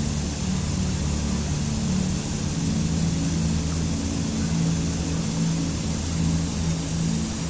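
Steady rushing water over a low, sustained ambient music drone whose notes shift a few seconds in.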